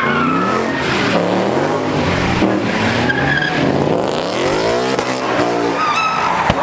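Car engine revving hard, rising and falling in pitch again and again, with tires squealing as the car drifts.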